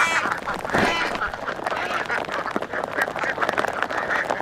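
A large flock of domestic ducks quacking together in a dense, continuous chorus, with one louder call about a second in.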